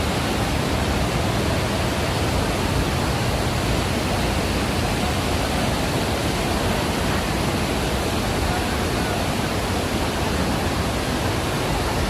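Waterfall: a loud, steady rush of falling water with no breaks or changes.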